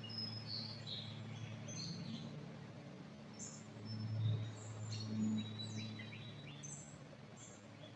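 Small forest birds chirping and calling: short high chirps and brief whistled notes scattered throughout. Underneath runs a steady low hum that swells about four seconds in.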